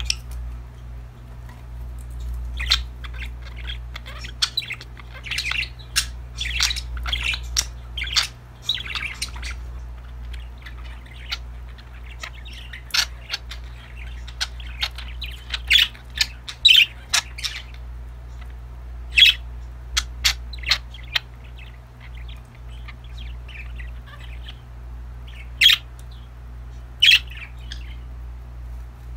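Pet budgerigars chirping and chattering, with a few sharp, louder calls standing out in the second half, over a steady low hum.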